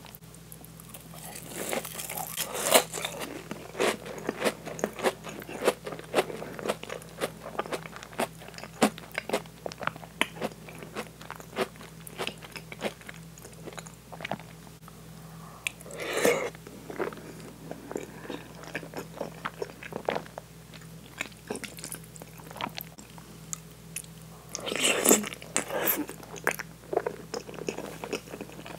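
Close-miked eating: a bite into a crab cream croquette's crisp breaded coating, then crunchy, wet chewing full of small irregular mouth clicks, with louder flurries about a third of the way in and again near the end.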